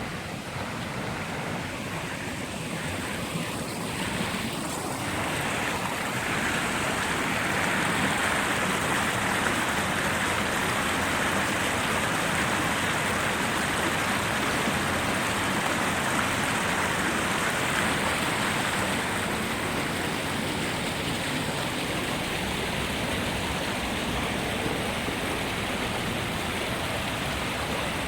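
Rushing water of a mountain creek, a steady noise that grows louder about six seconds in.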